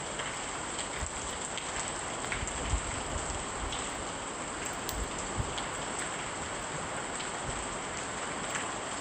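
Steady rain falling, with scattered sharp drip-like ticks and two soft low thumps in the middle.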